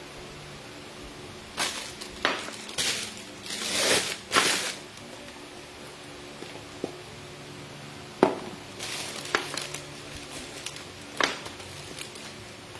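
Rustling and clinking from handling cake-decorating tools and packaging: a run of short rustles in the first half, then a few sharp knocks and crackles.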